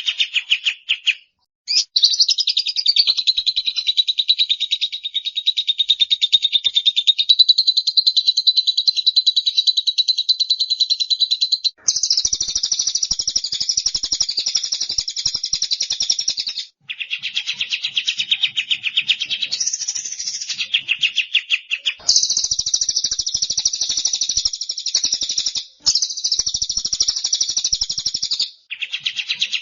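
Small songbirds' fast, dense trills of rapidly repeated high notes, spliced into a masteran tutor track: stretches of several seconds that cut off abruptly and switch to a different trill about every three to ten seconds.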